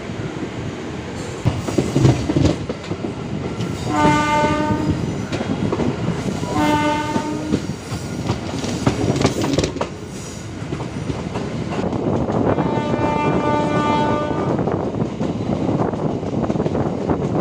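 MEMU electric passenger train running along the track, its wheels clattering over the rails. A train horn sounds three times: a blast about four seconds in, another about six and a half seconds in, and a longer one about twelve and a half seconds in.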